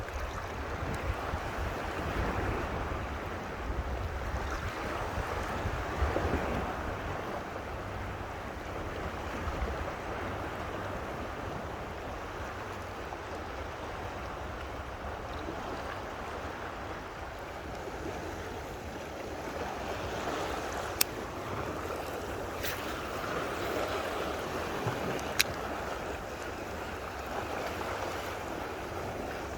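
Rushing water with wind buffeting the microphone, a steady noisy wash with a low rumble that eases after the first few seconds. Three sharp clicks come about two-thirds of the way through.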